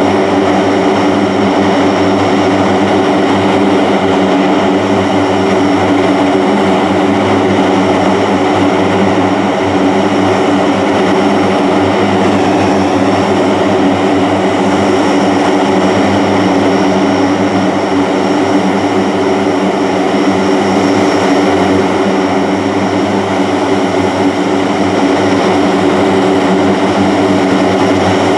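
Lockheed Martin AC-130J Ghostrider's four Rolls-Royce AE 2100 turboprop engines and propellers running steadily on the ground, a constant drone with several steady tones.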